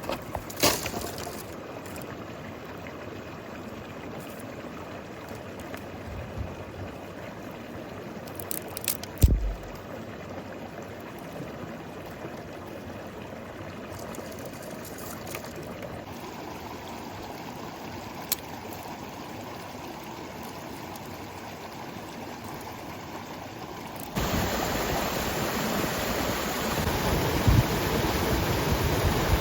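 Running water of a river or stream, a steady rush with a few knocks and splashes, the loudest about nine seconds in. About twenty-four seconds in, the water suddenly becomes louder and fuller.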